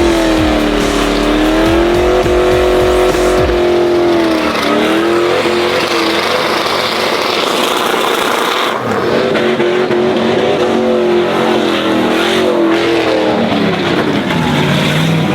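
Engine held at high revs during a burnout, its pitch rising and falling, over the noise of spinning tires.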